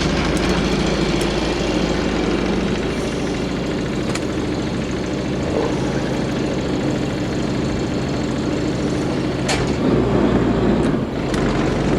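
A motor cruiser's inboard engine running steadily, with a low, even hum whose note shifts slightly about three seconds in and again near ten seconds.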